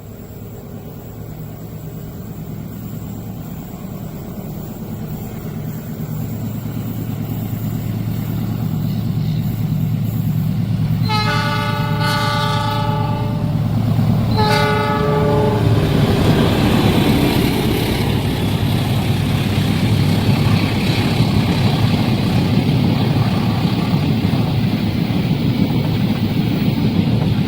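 A train approaching with a low hum that grows steadily louder, its locomotive horn blowing two blasts about halfway through, a long one then a shorter one. The train then passes close by with a loud, steady rumble of wheels on rails.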